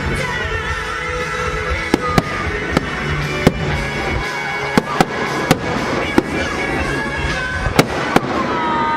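Fireworks going off in a string of sharp bangs, about one a second and sometimes two in quick succession, over music playing.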